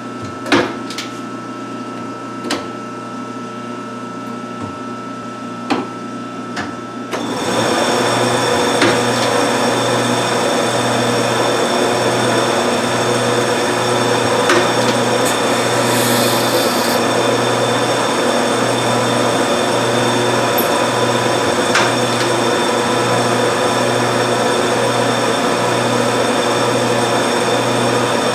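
1952 Wade 7 turret lathe: a steady machine hum with a few sharp knocks. About seven seconds in, it suddenly gets much louder and runs on steadily with a low pulsing beat about once a second.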